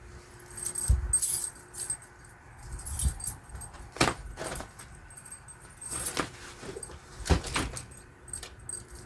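Keys jingling and clinking in short, irregular bursts, with a few dull thumps and clicks in between.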